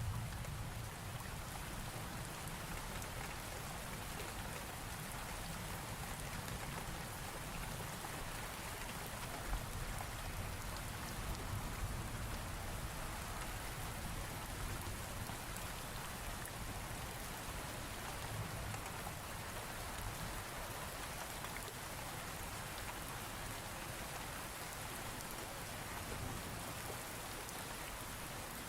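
Steady rain falling, with a low rumble underneath and one short sharp tap about nine and a half seconds in.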